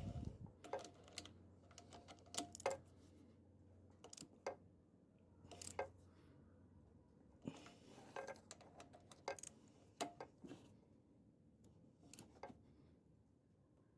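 Irregular light clicks and clinks of small hand tools and parts being handled, about fifteen scattered taps.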